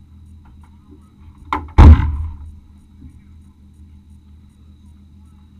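A single loud thud, with a small click just before it, over the steady low rumble of the off-road vehicle's engine.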